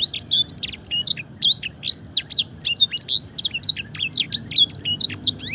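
Domestic canary singing without a break: a fast, varied run of sweeping whistled notes that rise and fall, several each second. It is a 'full isian' song filled with borrowed blackthroat and edelsanger phrases.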